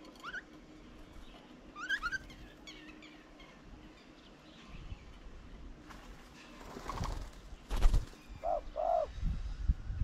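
Birds calling: short rising chirps in the first two seconds, then two low cooing notes near the end. A loud thump comes about eight seconds in, with further bumps and low rumble around it.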